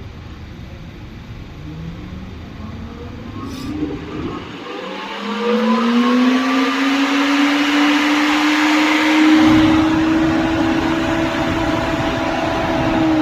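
BMW electric engine cooling fan, switched on by a scan-tool active test, spinning up about four seconds in with a rising whine and a growing rush of air. It runs steadily at high speed, and its pitch starts to drop near the end as it begins to wind down.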